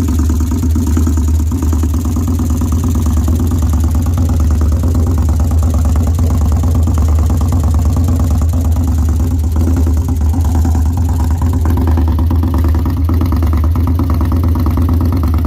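2013 Victory Highball's V-twin engine running steadily, with the knock the owner records it for.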